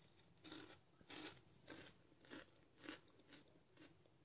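Someone chewing a crisp, flaky seeded croissant close to the microphone: a run of faint crunches, about two a second.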